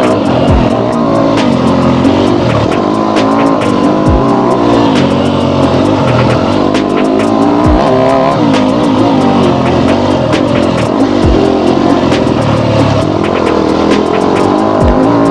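Yamaha YZ250F's single-cylinder four-stroke engine revving up and falling off again and again as the dirt bike is ridden through tight turns, with sharp clicks scattered throughout.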